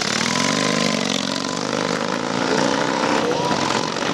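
A motorcycle engine running, its pitch shifting a little as the throttle changes.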